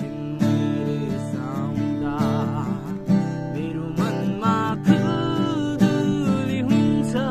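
Acoustic guitar strummed in chords, with a wavering melody line playing above it.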